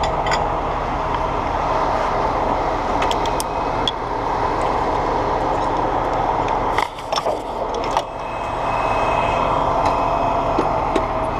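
Heavy diesel truck engine running steadily, with scattered sharp metallic clicks and knocks; the engine eases briefly about seven seconds in.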